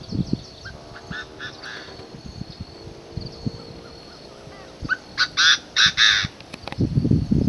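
Wild birds calling: a few short calls, then a louder run of about four calls near the end.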